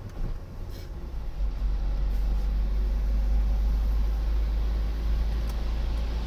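Car on the move: a steady low rumble of engine and road noise, building over the first second or two and then holding steady.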